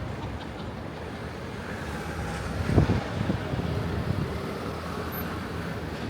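Street traffic noise with a vehicle passing, and a few low thumps about three seconds in and again around four seconds.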